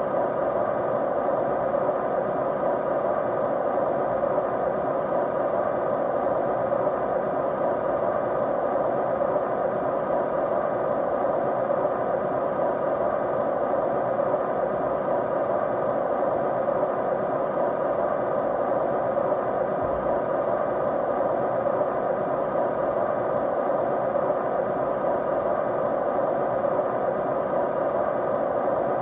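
Steady white noise, even and unchanging, with a faint steady hum running through it.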